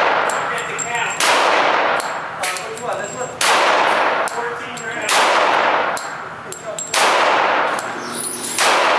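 Five gunshots about every one and a half to two seconds, each a sharp bang followed by a long echoing decay in an enclosed range.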